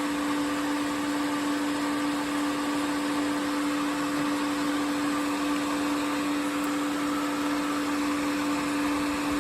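Bambu P1S 3D printer running with its hot end heated, giving a steady whirring hum with a constant low tone and a fainter higher one.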